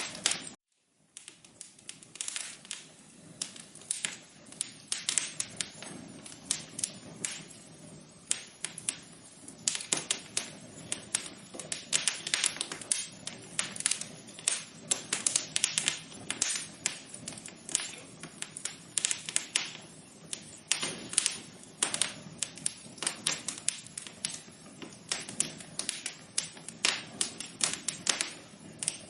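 Wood fire crackling: dense, irregular pops and snaps over a low steady rush. The sound cuts out completely for under a second near the start.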